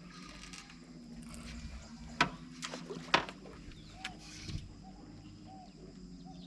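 Short animal-like calls repeating every second or so over a low steady hum, with two sharp knocks about two and three seconds in.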